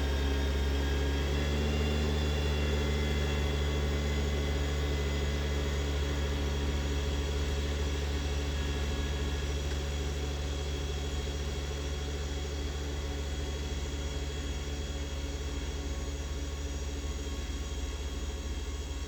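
Kubota 2670 compact tractor's diesel engine running steadily, easing off slightly in loudness toward the end.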